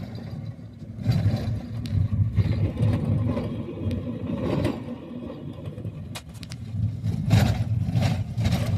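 Motor vehicle driving: a low engine hum that swells and eases, with several knocks and rattles through it.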